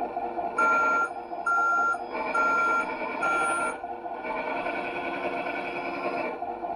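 Electronic reversing beeper from an RC scale truck's sound unit: four even beeps, about one a second, over a steady engine sound, followed by a louder stretch of engine sound.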